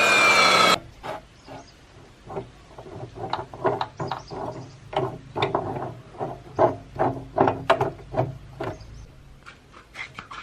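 Electric cutting machine's motor running loudly, then cutting off suddenly within the first second. A quieter run of irregular light clicks and knocks follows, about two or three a second.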